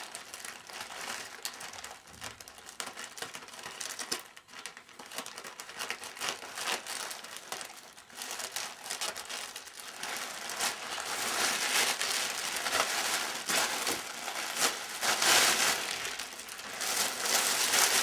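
Parcel packaging being crinkled and rustled as it is unwrapped by hand, with irregular crackles, growing louder about halfway through.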